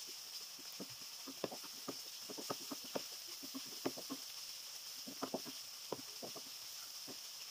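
Sliced onions frying in oil in a nonstick pan, sizzling steadily, with irregular taps and scrapes as a wooden spatula stirs them against the pan.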